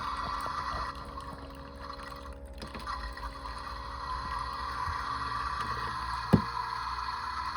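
Theo Klein Bosch toy washing machine running with water in it: a small motor's steady whine, and one sharp click about six seconds in.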